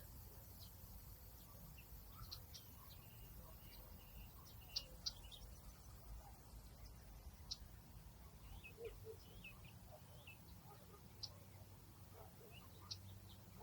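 Faint nature ambience: scattered short, high chirps, a few a second, over a low steady rumble.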